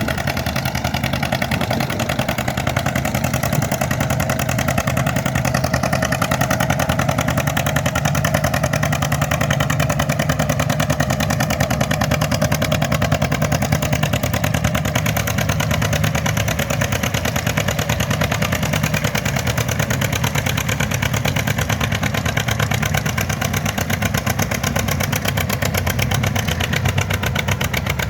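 Engine of a pulling tractor running loud and steady, with rapid, even firing pulses throughout.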